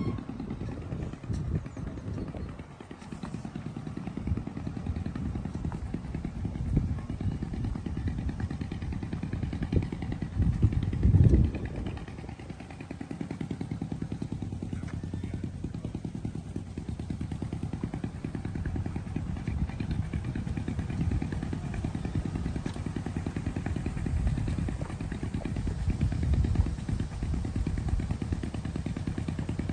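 An engine running steadily with a low, rapid pulse, and one loud low thump about eleven seconds in.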